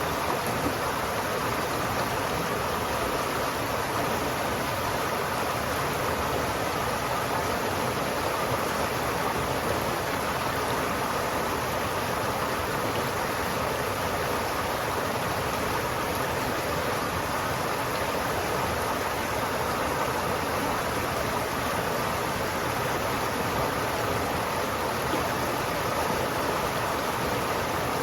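River water flowing steadily, an even rushing that does not change.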